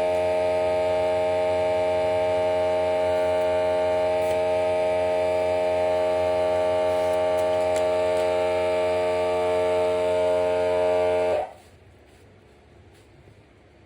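Electric air compressor running with a steady, even hum while it inflates a pit bike's inner tube, then cutting off suddenly near the end.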